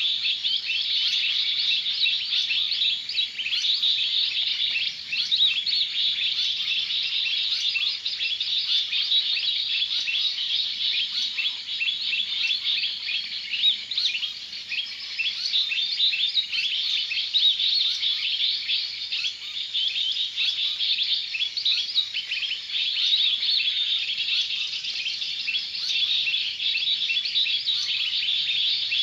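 Small birds chirping and twittering, dense and continuous, many short chirps overlapping.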